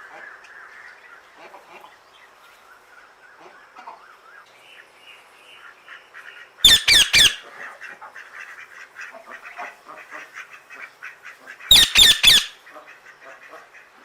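Birds squawking: two loud bursts of three or four harsh calls each, about five seconds apart, over a steady background of softer bird chatter.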